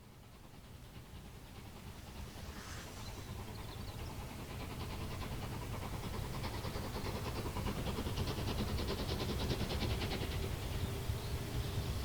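Steam-hauled train approaching, its low rumble growing steadily louder, with a fast, even rattle joining about halfway through.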